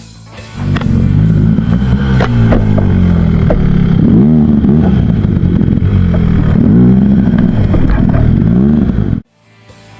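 Enduro dirt bike engine revving up and down again and again on a rough trail, with clatter from the bike, loud and close. It starts about half a second in and cuts off suddenly near the end.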